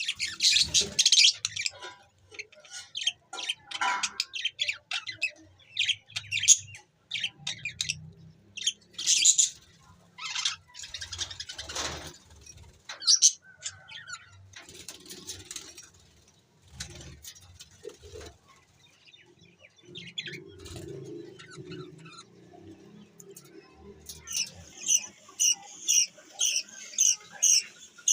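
Budgerigars chirping and chattering in short scattered calls, breaking into a run of repeated sharp calls, about two a second, near the end.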